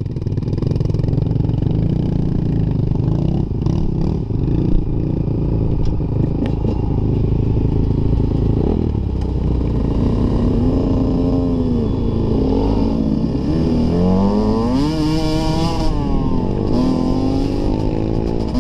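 Dirt bike engine running with rattling and clatter; from about halfway through the revs climb and drop again and again.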